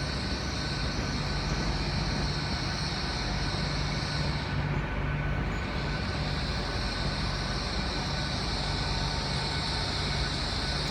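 A train standing at a station platform, its engines and on-board equipment running with a steady hum and hiss; the high hiss dips briefly about halfway through.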